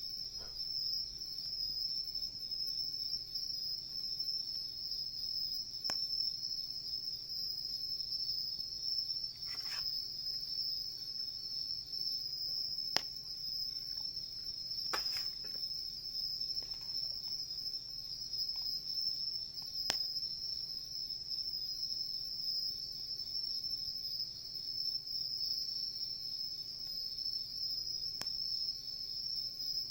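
Night insects trilling steadily in a continuous high-pitched chorus, with a few sharp pops from a crackling wood campfire now and then.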